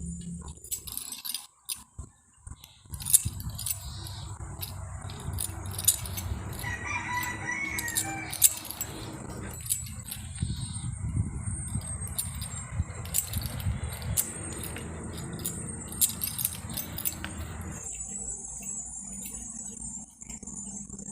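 A rooster crows once, about seven seconds in, over a steady low rumbling noise with scattered clicks that stops near the end. Insects shrill steadily throughout.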